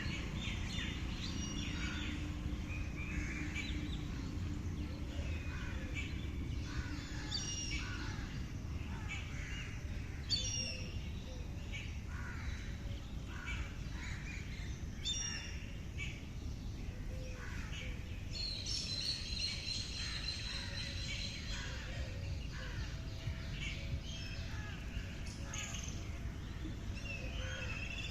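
Many birds chirping and calling over one another in short, varied calls, with one longer held call about two-thirds of the way through. A steady low rumble of background noise runs underneath.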